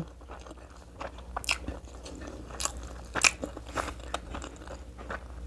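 Close-miked chewing of a mouthful of rice with pork pickle, with irregular sharp clicks of the mouth and teeth.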